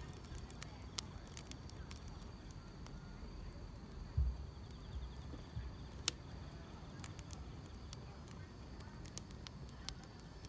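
Wood fire crackling, with sharp pops scattered irregularly over a low rumble, and a faint steady chirring of grass insects behind it. A dull low thump sounds about four seconds in.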